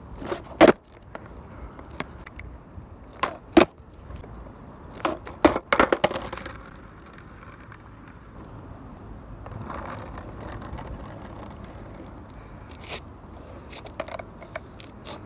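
Skateboard knocking and clacking on pavement: a few sharp, loud knocks in the first six seconds, then quieter steady noise with a few light clicks.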